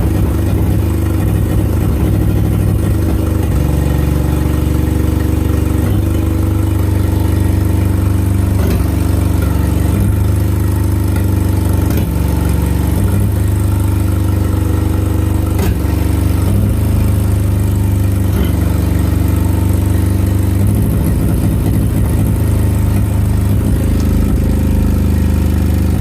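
1987 Nissan 200SX S12 engine idling steadily on a freshly uploaded ECU tune with new mass airflow sensor settings; its note shifts slightly a few times.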